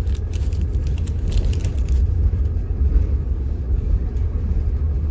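Steady low rumble of a moving Mugunghwa-ho passenger train heard from inside the carriage, with light rattling clicks in the first two seconds.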